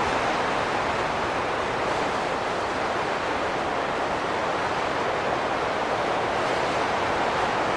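Steady rushing wind, an even noise with no whistling tones or distinct gusts.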